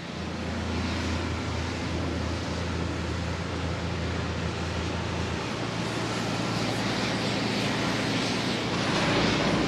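Street traffic: a vehicle engine running steadily with road noise, its low rumble dropping away about five and a half seconds in.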